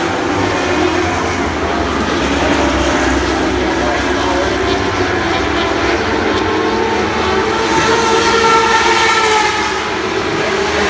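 A pack of Lightning Sprint cars racing, their motorcycle engines running hard and loud, with the pitch rising and falling as the cars pass.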